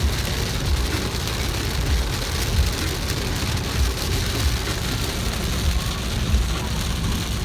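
Steady outdoor rushing noise with a low, irregular rumble underneath.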